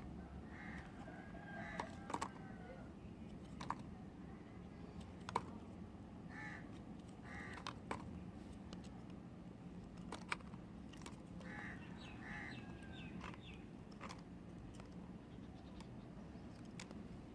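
A knife cutting into a bar of soap, giving scattered sharp, crisp clicks at irregular times. A bird calls in pairs every five or six seconds in the background.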